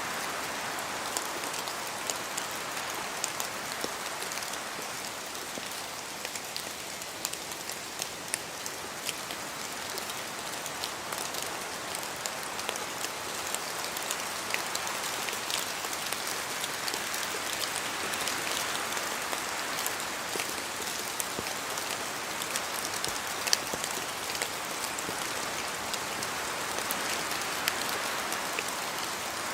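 Steady rain falling through a spruce forest, with many separate drops tapping as they fall from the trees, and a hiss that slowly swells and eases as wind moves through the branches.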